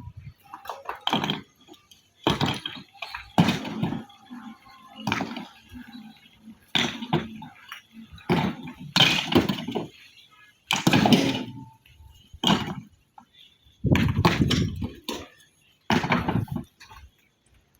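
Hard stone pieces crashing and clattering down one after another at an irregular pace, roughly one impact every second or so.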